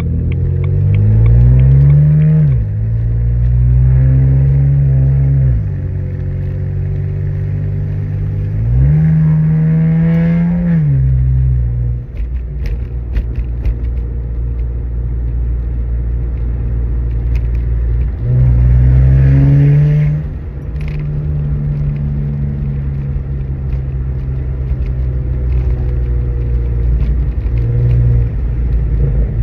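2007 BMW 335i's N54 twin-turbo inline-six through a straight, muffler-deleted exhaust with catless downpipes. Revs climb quickly, hold and drop back three times, with a lower steady drone between the pulls and a little crackle.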